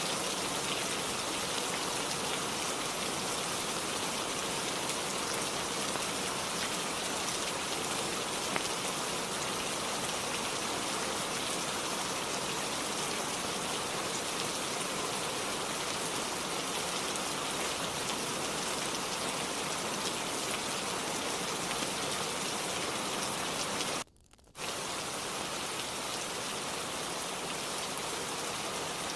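Steady rain falling, a dense even hiss with no thunder. About 24 seconds in the sound drops out almost completely for about half a second, then resumes unchanged.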